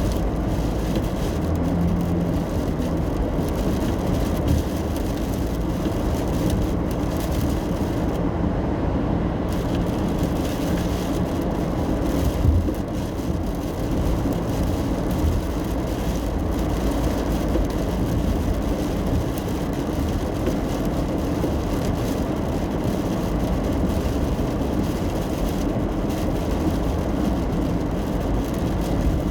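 Steady road and tyre noise heard from inside a car driving on a wet road in the rain, with one short thump about twelve seconds in.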